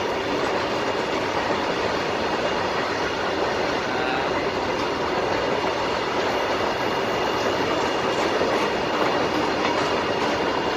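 A long Indian Railways freight train of box wagons rolling past at steady speed. The wheels on the rails make a continuous rolling noise with a faint, thin, steady high squeal.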